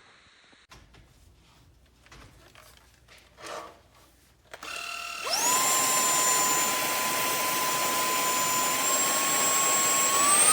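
A few faint clicks and handling sounds, then a cordless stick vacuum's motor spins up about halfway through with a rising whine. It runs steadily with a high whine over a loud rush of air, and near the end the pitch steps up as the motor speeds up.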